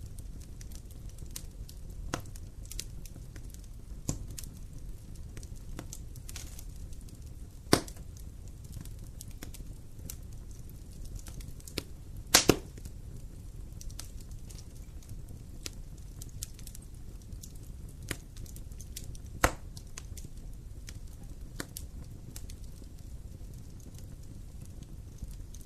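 Wood campfire burning, with a steady low rumble and scattered sharp crackles and pops. The loudest pop comes as a quick double snap about halfway through, with other sharp ones about a third of the way in and again near three quarters.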